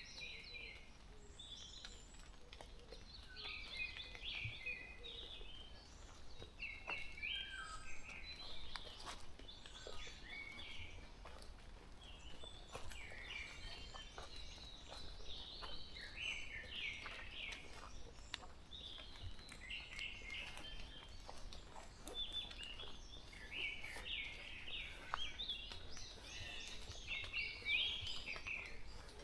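Several songbirds singing, short phrases repeating again and again over a quiet forest background.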